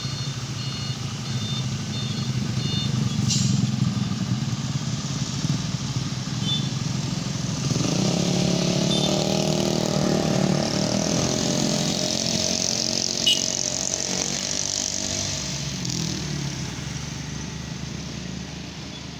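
Heavily loaded truck's engine labouring uphill, swelling louder about eight seconds in with its pitch rising and falling, then fading toward the end.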